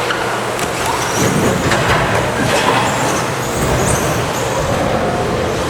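A pack of 1/10 electric RC stadium trucks with 13.5-turn brushless motors racing together. Their motors make overlapping high whines that rise and fall in short streaks as the drivers throttle on and off, over a steady wash of track noise with a few sharp clacks.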